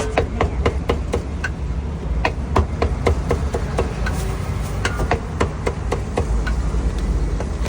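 A cleaver chopping crispy roast pork on a wooden chopping block: a fast, irregular run of sharp chops, about three or four a second, over a steady low rumble.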